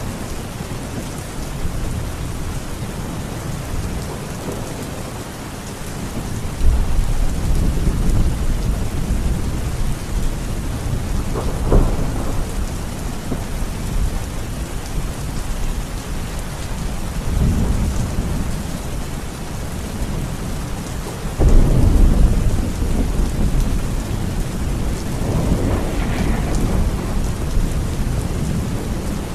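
Steady heavy rain with rolling thunder: several low rumbles swell and fade through it, the loudest breaking in sharply about two-thirds of the way in.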